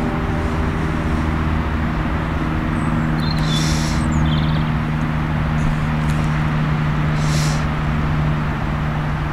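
A steady low mechanical hum, like a running engine, over a constant rushing noise, with a couple of brief faint high hisses.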